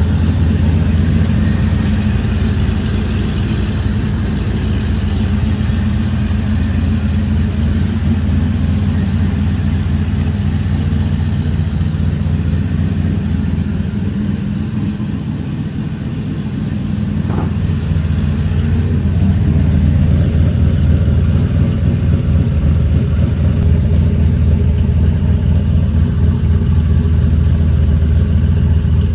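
Turbocharged LS V8 in a 1991 Chevy Silverado running through its custom stainless exhaust. It holds a steady deep note, eases off a little past the middle, then comes back up louder for the last stretch.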